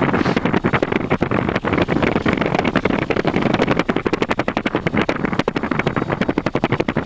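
Cessna 150's four-cylinder Continental engine and propeller at full power during the takeoff roll, heard loud inside the cockpit, with a rapid uneven pulsing over the steady noise.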